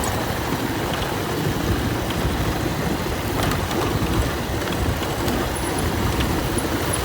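Motorcycle coasting in neutral on a dirt road: a steady rumbling noise of wind and tyres.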